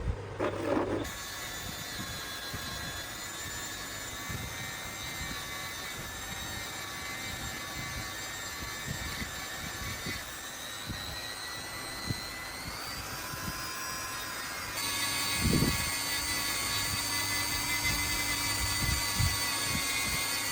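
Electric power tool motor running with a steady high-pitched whine; the pitch rises a little around 12 seconds in, and near 15 seconds it gets louder, with a single knock just after.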